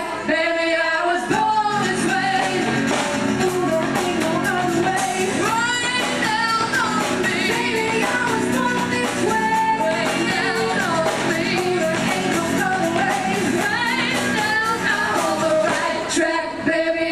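Live pop-rock song: two women singing together over a drum kit.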